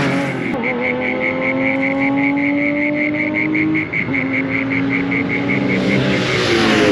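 Rally car engine pulling hard through the gears, its pitch climbing steadily, with one gear change about four seconds in. It grows louder near the end as the car comes close.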